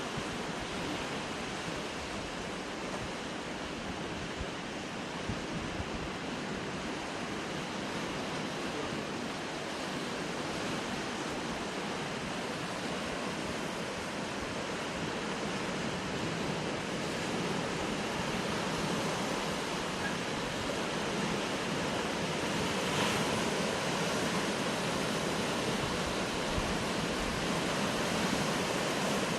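Sea surf washing continuously against coastal rocks, a steady wash of water noise that swells slightly past the middle, with wind buffeting the microphone in low rumbles.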